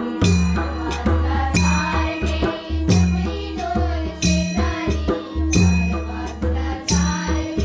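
Instrumental bhajan accompaniment: a harmonium holds steady tones while a hand drum plays deep, heavy strokes and small hand cymbals strike sharply, with the strongest cymbal strike about every 1.3 seconds.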